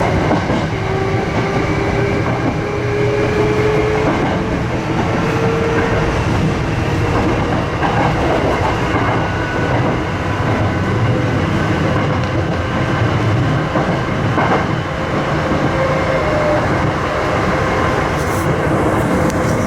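Sanyo Electric Railway electric train running on the track, a steady rumble of wheels on rails. A faint tone climbs slowly in pitch over the first several seconds.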